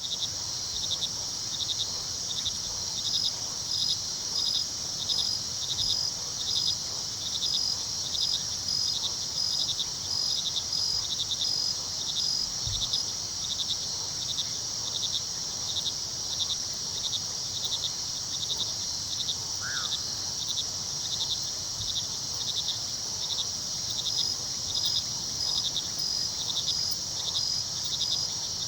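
Crickets at night: a steady high trill with a regular chirp about twice a second beneath it, over the faint low rush of a river. A single short rising call sounds about two-thirds of the way through.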